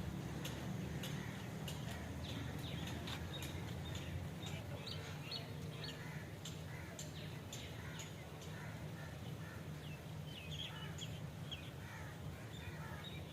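Birds calling in short chirps and clicks over a steady low hum.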